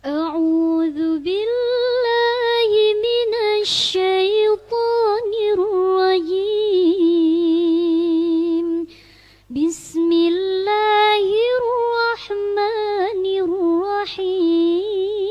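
Quranic recitation in a melodic tajweed style by a single high-pitched voice, drawn out in long, ornamented held notes. There is a quick breath about four seconds in and a short pause with a breath near the middle.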